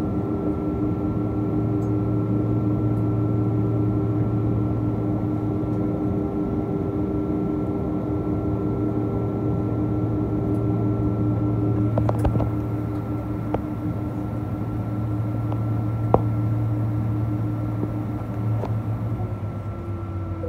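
Steady cabin drone of a Boeing 777-222A airliner on the ground after landing: a constant hum made of several steady tones. A few sharp clicks come about twelve and sixteen seconds in, and the tones shift slightly near the end.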